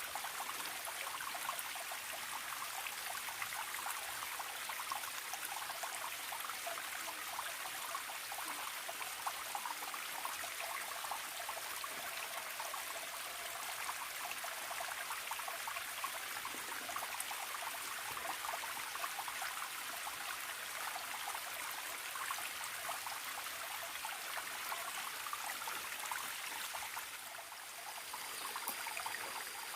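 Small forest stream trickling and babbling steadily.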